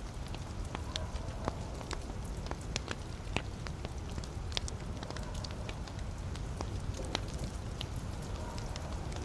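Wood fire burning in a fireplace: a steady low hiss and rumble of the flames with irregular sharp crackles and pops from the logs, several a second.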